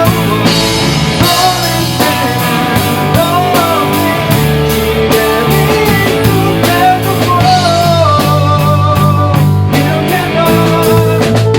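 Live rock band rehearsing: drum kit, bass and electric guitar playing on steadily, with a bending melody line over the top.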